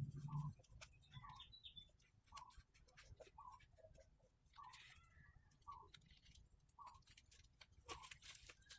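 Near-quiet with a faint bird repeating a short call about once a second, and scattered light clicks.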